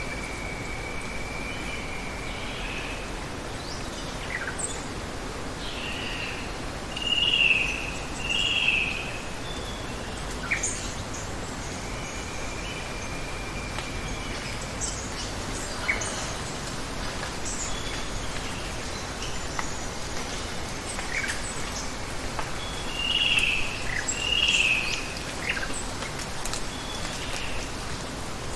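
A steady hiss of water under wild birds calling: a loud two-note call comes twice, once about a quarter of the way in and again near the end, with a few long level whistles and scattered short high chirps between.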